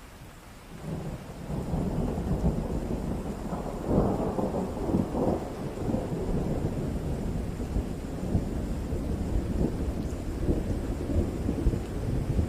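Thunder rumbling over steady rain. The rumble swells about a second in, is loudest around four seconds in, and keeps rolling unevenly after that.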